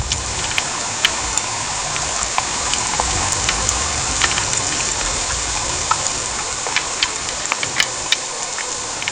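Heavy rain pouring steadily, a dense hiss dotted with many sharp ticks of drops striking a hard surface, over an uneven low rumble.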